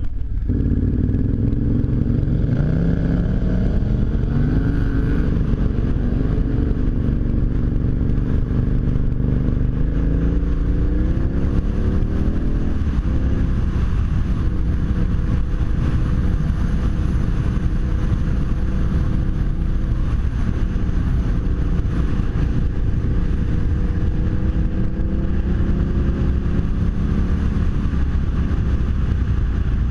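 Adventure motorcycle engine under way, rising in pitch as it accelerates about two seconds in and again about ten seconds in, then running steadily.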